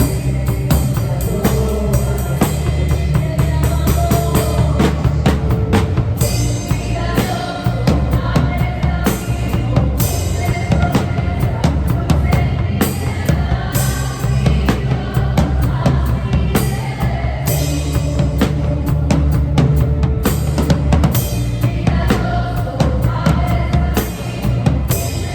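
Acoustic drum kit played live, with kick drum, snare hits and cymbal crashes in a steady groove, over the song's backing track, all picked up by a phone's microphone in the room.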